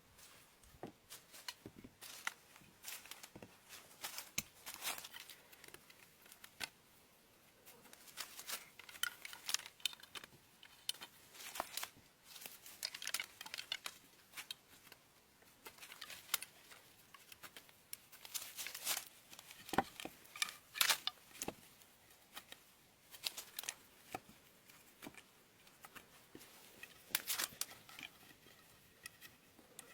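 Irregular crinkling, scraping and clicking, in short spells with brief gaps between them.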